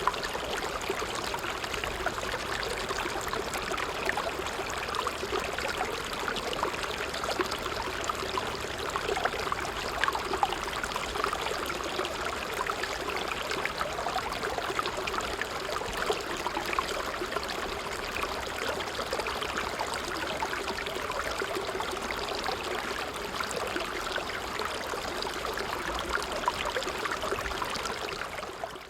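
Creek running: a steady rush of water dotted with many small trickles and splashes, fading down near the end.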